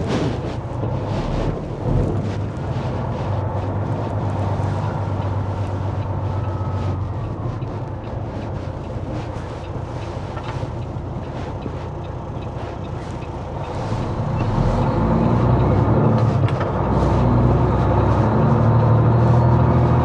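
Diesel semi-truck engine running, heard from inside the cab while driving, getting louder about two thirds of the way through.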